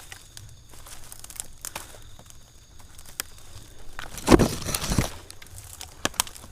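Crinkling, crackling rustle with scattered sharp clicks as a climber works his way up a tree, brushing through dry leaves and fronds. The rustle is loudest for about a second around four seconds in.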